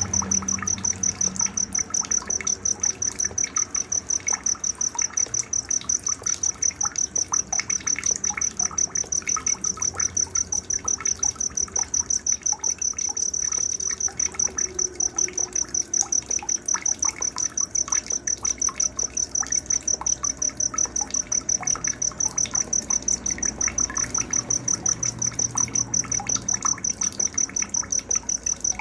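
Night-time nature sounds: a cricket chirping steadily in a fast, even rhythm of about three to four high chirps a second, with scattered faint short chirps of other small creatures underneath.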